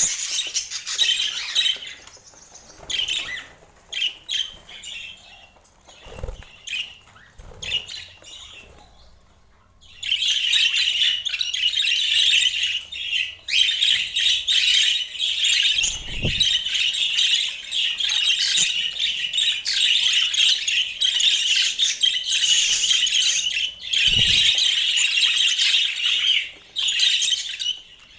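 Budgerigars chattering and warbling, with scattered calls for the first ten seconds, then a steady, dense stream of chatter.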